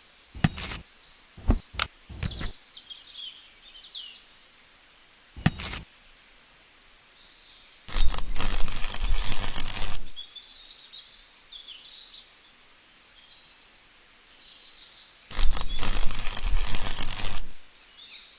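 Birds chirping in the background, broken by a few sharp clicks and by two loud bursts of rapid mechanical rattling, each about two seconds long.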